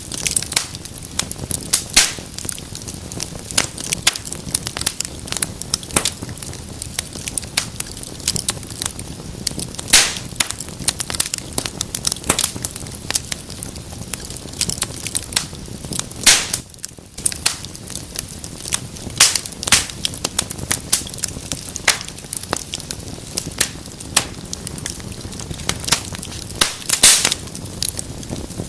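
Wood fire burning in a fireplace, crackling with frequent irregular sharp pops over a soft steady hiss of the flames.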